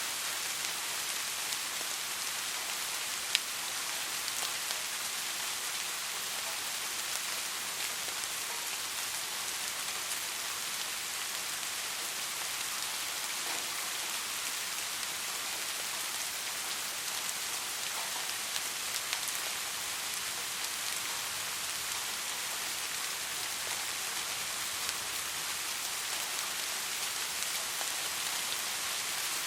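Steady soft rain falling, an even hiss with a few individual drops ticking, one a little louder about three seconds in.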